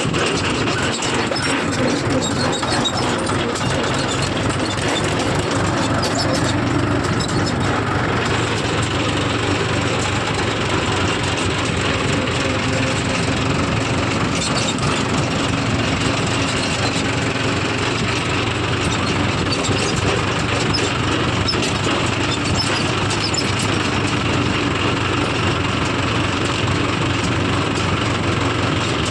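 Tractor engine running steadily, a loud, even drone that doesn't rise or fall.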